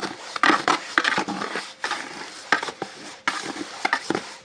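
Stiff cement mortar being scooped and packed by hand: irregular squelching, scraping and small clicks.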